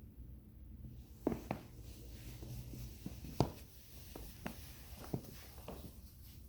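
A handful of short, irregular knocks and taps, the loudest about three and a half seconds in, over a low steady hum.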